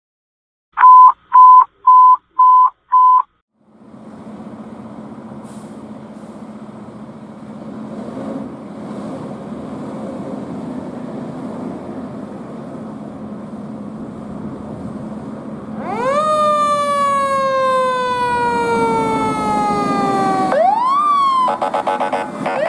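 Five short, loud beeps at one pitch, then the engine of a 2018 KME Severe Service Aerialcat tractor-drawn aerial fire truck drawing near. About 16 seconds in, its siren comes on, sweeping up quickly and sliding slowly down in pitch, twice. Near the end it switches to a rapid warble.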